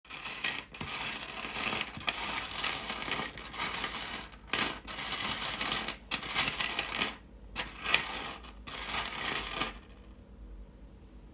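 A handful of small metal divination charms being shaken and cast, rattling and clinking in spells broken by short pauses, stopping about ten seconds in.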